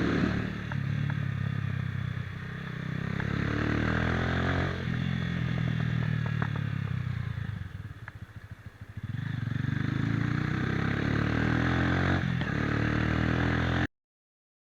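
Motorcycle engine running under way, its level rising and falling with the throttle; about eight seconds in it drops back quieter for a second or so, then picks up again. The sound cuts off suddenly near the end.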